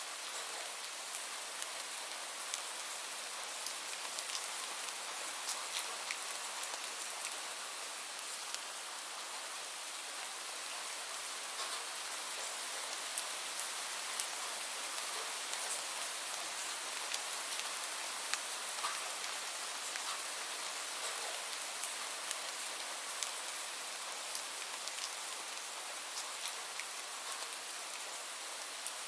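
Steady rain falling: a constant hiss with many sharp drop ticks scattered through it.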